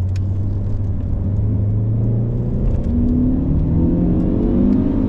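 Alfa Romeo 147 2.0 Twin Spark four-cylinder engine pulling on the road, heard from inside the car. It holds a steady drone at first, then the engine note climbs in pitch from about three seconds in as it revs up.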